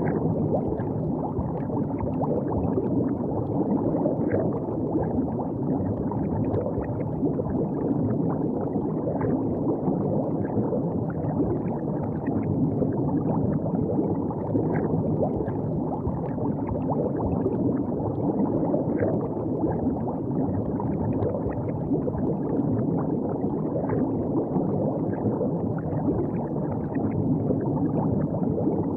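River water flowing and gurgling: a steady, low rush with many small splashy ticks running through it.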